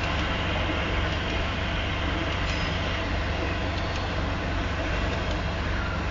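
Freight train cars rolling past at about 25 mph, a steady rumble and rush of steel wheels on rail.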